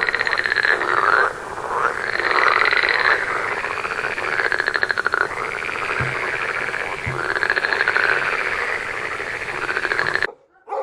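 Frogs croaking in a dense chorus of pulsing calls that swell and fade in waves about every two seconds, cutting off suddenly near the end.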